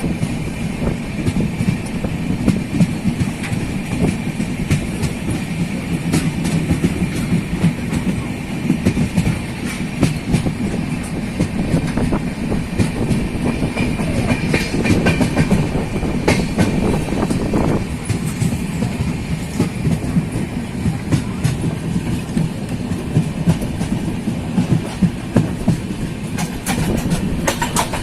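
Passenger train coaches running at speed, heard from aboard: a steady rumble with the wheels clattering over rail joints throughout.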